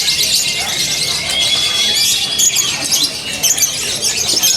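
Lovebirds in a singing contest, several chattering at once in fast, high-pitched twittering trills, with a few long thin held notes.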